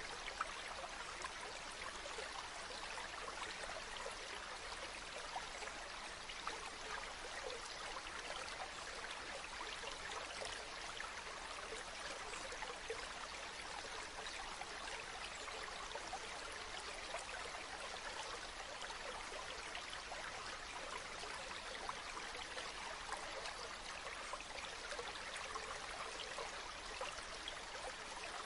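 Steady rush of running water, with small splashes and drips standing out here and there.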